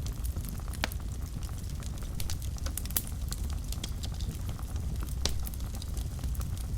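Wood fire burning in a fireplace: a steady low rumble of the flames with irregular sharp crackles and pops, two of them louder, near the first second and about five seconds in.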